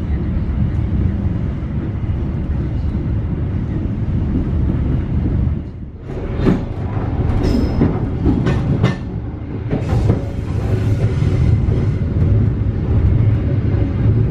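Passenger train running along the track, heard from inside a carriage: a steady low rumble, with a run of sharp wheel clacks over the rails between about six and nine seconds in.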